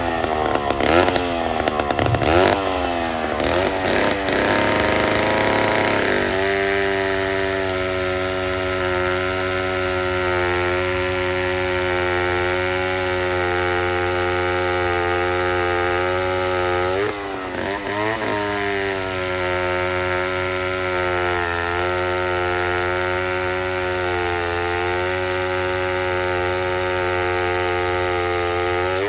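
Vintage two-stroke chainsaw revving up and down several times, then held at a steady high speed. About 17 seconds in the engine dips and revs back up briefly before settling to steady running again.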